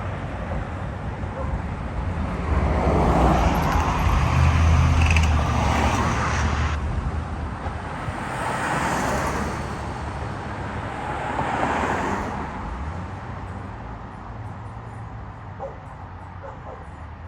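Road traffic passing by: a heavy vehicle's engine rumble swells and fades about three to six seconds in. Two more vehicles go past around nine and twelve seconds, each a rise and fall of tyre and engine noise.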